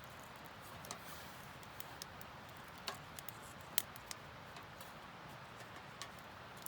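Wood fire crackling, with sharp irregular pops over a low steady hiss and one louder snap a little under four seconds in.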